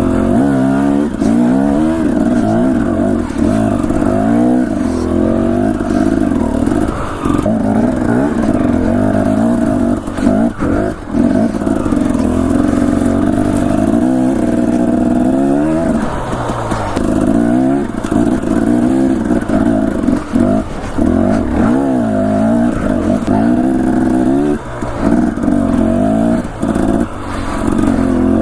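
Dirt bike engine under way, revving up and down over and over as the throttle is worked, with a few brief drops in power.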